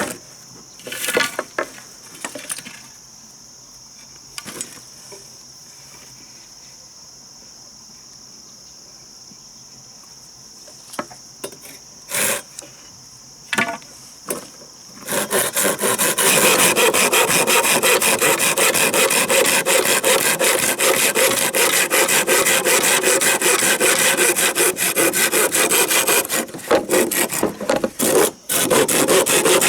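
Saw cutting through wood with rapid back-and-forth strokes, starting about halfway through and running on loudly. Before it come a few scattered knocks over a steady high insect drone.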